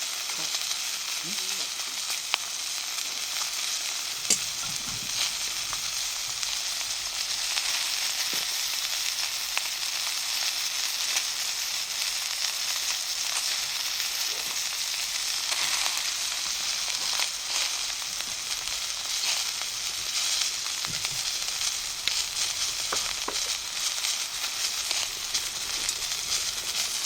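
Pork chop sizzling in a cast-iron skillet over a campfire: a steady frying hiss with a few sharp pops.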